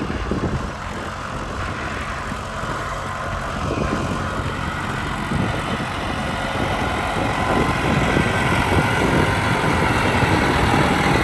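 Farm tractor engine running as it works the field, growing steadily louder as it comes closer.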